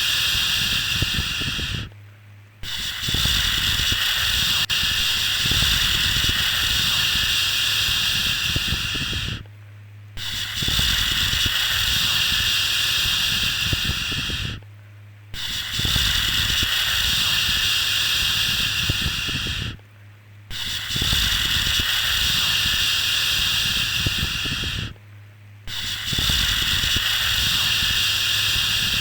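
Long, steady 'shhh' shushing sound repeated over and over, each shush lasting about four to seven seconds with a brief pause between, over a constant low hum.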